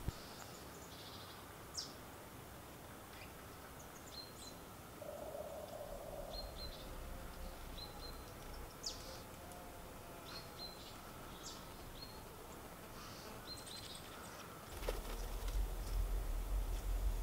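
Small woodland birds calling with short high chirps every second or two over a faint steady background hiss. A low rumble sets in near the end and grows louder.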